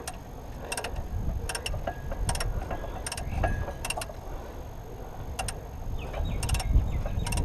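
Hand tools working on metal under a car bonnet: a dozen or so sharp clicks and clinks, spaced unevenly, over a low rumble.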